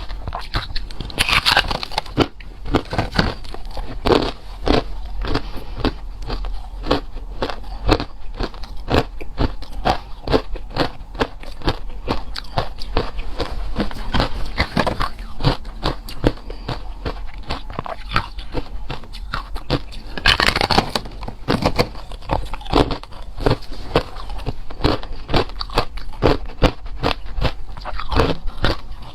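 Ice being bitten and chewed close to the microphone: continuous crunching made of many irregular sharp cracks, with two louder crunches, one about a second in and one about twenty seconds in.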